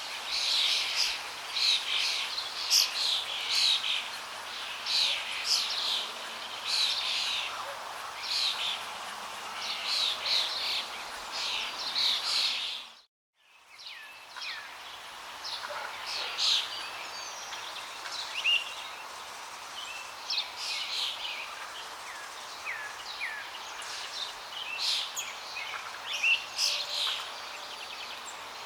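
Many small birds chirping and singing in quick short calls over a steady rush of flowing water. About thirteen seconds in, the whole sound drops out for under a second and then fades back in.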